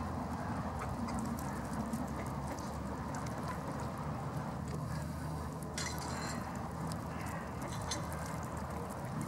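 Lakeside ambience: water sounds and occasional faint clicks over a steady low rumble, with one brief splashy burst about six seconds in.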